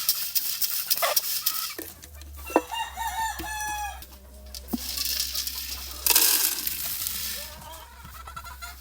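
Chickens clucking and a rooster crowing once, about two and a half seconds in, with more clucking near the end. Two bursts of rustling noise, one at the start and a louder one around six seconds, and a steady low hum underneath from about two seconds on.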